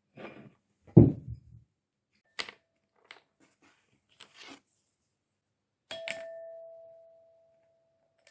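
A heavy thump, a few light clicks and rustles, then a sharp knock followed by a clear ringing tone, like a struck bell or dish, that fades over about a second.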